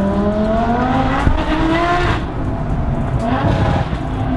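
Supercharged Lamborghini Huracán's V10 engine and exhaust accelerating, the note rising for about two seconds, dropping, then climbing again briefly and holding steady.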